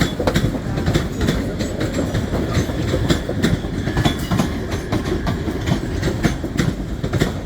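A train moving past, its wheels clicking again and again over rail joints above a low rumble.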